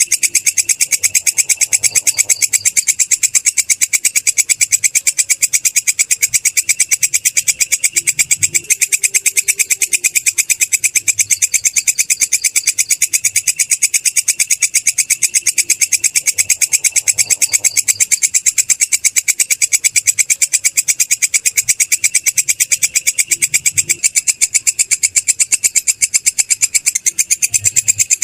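Belalang kecek (a katydid-type grasshopper) stridulating: a continuous, high-pitched, rapidly pulsing trill at an even rate that never breaks.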